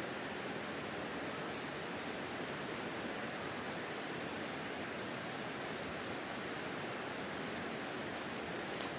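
Campfire burning: a steady rushing hiss with a few faint sharp crackles, one just before the end.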